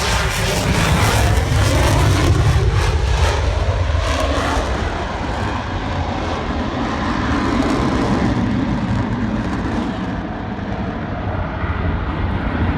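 Eurofighter Typhoon's twin EJ200 turbofan engines at high power on a display pass: loud jet noise with a rapid crackle over the first few seconds, growing duller as the hiss fades about ten seconds in.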